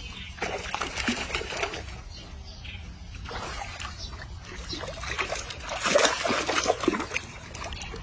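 Water splashing and trickling in irregular bursts, loudest about six seconds in.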